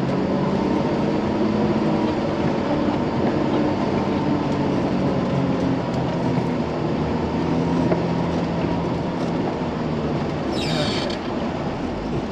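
Truck engine running under load as it is driven forward and back in snow, its pitch rising and falling with the throttle, over steady noise from the tyres and drivetrain. A brief high-pitched sound cuts in about ten and a half seconds in.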